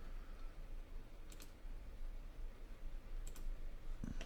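A few sharp clicks of a computer mouse over a faint, steady low hum: one about a second in and a quick pair a couple of seconds later.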